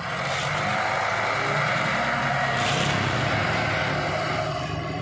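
Heavy truck engine running steadily with a low hum, and a short burst of hiss about two and a half seconds in.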